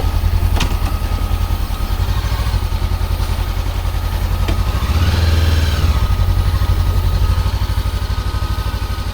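Motorcycle engine idling with a steady, rapid pulse. About five seconds in, the sound swells up and falls back again for about a second.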